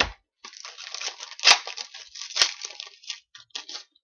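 Hockey trading cards being handled: a papery rustling and crinkling, with two sharp snaps about a second apart.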